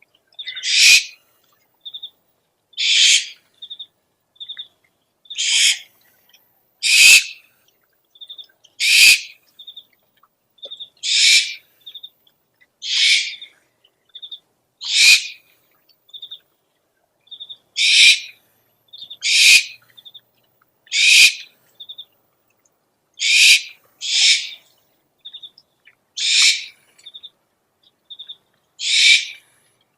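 Owl lure recording: harsh, hissing screech calls, each about half a second long, repeating roughly every two seconds. Short high pips come in twos and threes between them.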